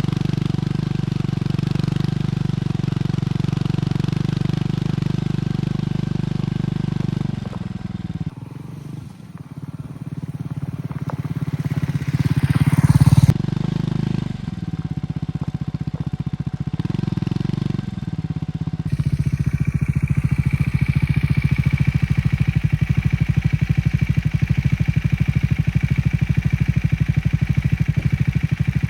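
Triumph Scrambler 400X's single-cylinder engine through its stock exhaust. It runs steadily at first, then revs up about halfway through, the rev climbing and then cutting off sharply. In the last third it settles into an even, fast-pulsing idle.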